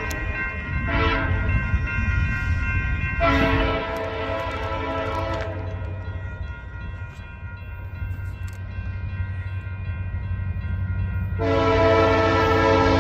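Diesel locomotive's multi-chime air horn sounding: a short toot about a second in, a blast of about two seconds shortly after, and another long blast starting near the end. A steady low engine rumble runs underneath.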